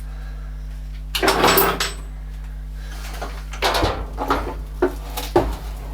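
Metalworking lathe running with a steady hum, overlaid by bursts of metallic clattering and several sharp knocks: a short burst about a second in, then a run of knocks and rattles in the second half.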